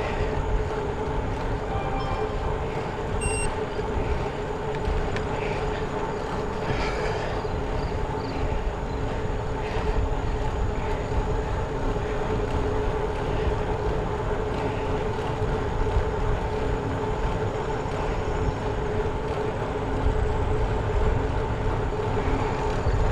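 Steady road and wind noise from riding a road bicycle, with a constant low hum running under it.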